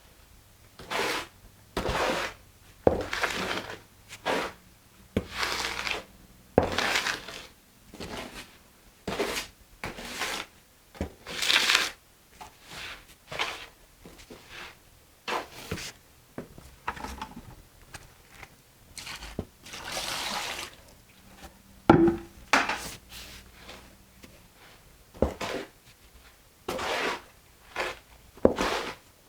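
Wet mortar being mixed by hand in a container: irregular scraping, sloshing strokes about once a second.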